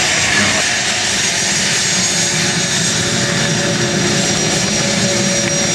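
A-10 Thunderbolt II's twin turbofan engines running steadily, a continuous rush with a thin high whine.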